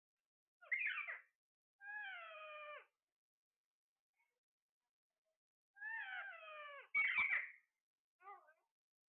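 A parrot calling: short harsh squawks and two long, falling, meow-like calls, each about a second long.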